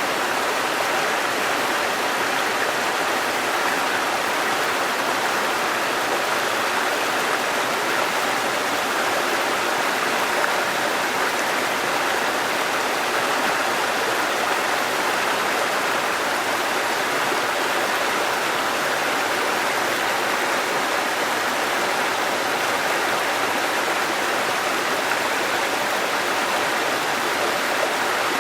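Waterfall and running water, a steady, unbroken rush.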